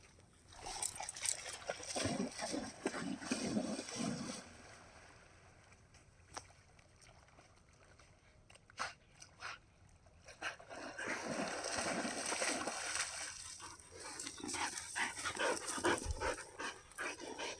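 A dog making close, noisy sounds in two stretches, about a second in to four seconds and again from about ten seconds on, with a near-silent gap broken by a few sharp clicks.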